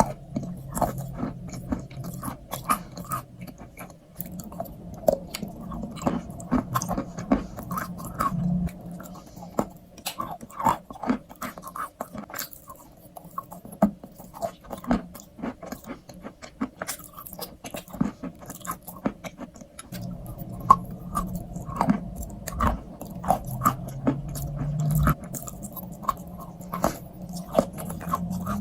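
Close-up chewing of a crunchy strawberry crunch treat: many small, irregular crisp crunches and wet mouth sounds.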